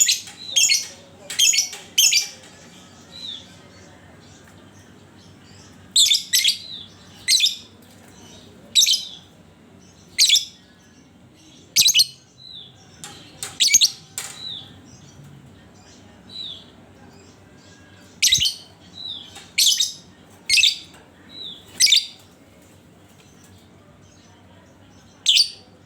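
Lovebird giving short, sharp screeching calls in clusters of two to four, a few seconds apart, with softer upslurred chirps between them.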